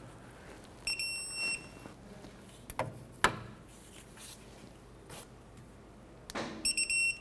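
Digital torque wrench beeping twice, each a high beep about half a second long, as the caliper bracket bolts reach their 88 ft-lb setting. A few sharp clicks come from the tool between the beeps.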